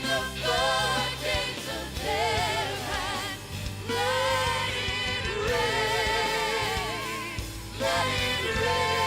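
Contemporary worship band playing live, with singers holding long notes with vibrato over a steady bass line; brief breaks between sung phrases about a third of the way in and near the end.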